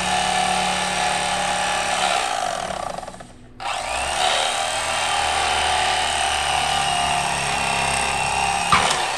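Electric fillet knife (Mister Twister Piranha) running with a steady motor hum as it cuts the skin off a catfish fillet. It stops briefly about three and a half seconds in, starts again with a short rise in pitch, and runs until near the end.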